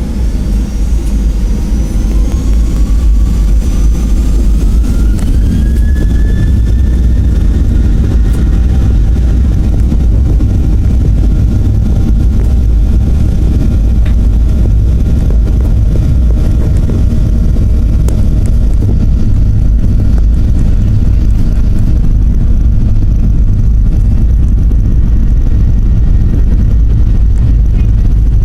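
Boeing 737-800's CFM56-7B turbofan engines spooling up to takeoff thrust, heard inside the cabin: a whine that rises over the first few seconds and levels off, over a loud, steady rumble of the takeoff roll.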